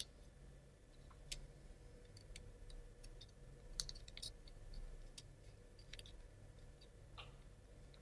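Faint, scattered clicks and taps of laser-cut plywood model parts being handled and pushed onto their pins, the loudest a little before the middle, over a low steady room hum.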